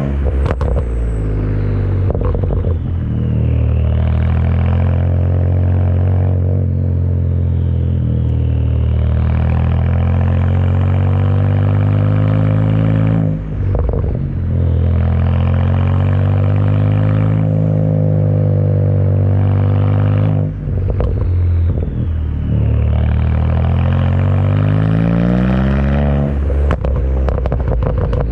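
BMW 335i's N54 twin-turbo 3.0-litre inline-six running through a dual 3-inch exhaust with an MG Motorsport muffler and Magnaflow sport secondary cats, under load. The engine note climbs in pitch in long runs, broken by short dips about every seven seconds where the pitch drops.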